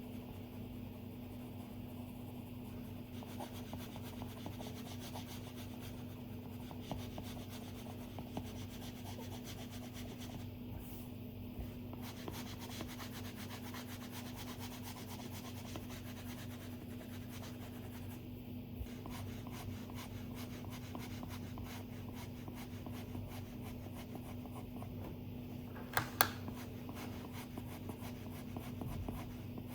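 A stylus drawing on an iPad screen: a dense run of scratchy rubbing strokes of the nib on the screen, easing off briefly twice, with two sharp taps near the end. A steady low hum runs underneath.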